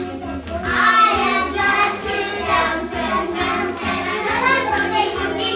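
A song with voices singing over steady instrumental backing; the voices sound like a group of children singing along.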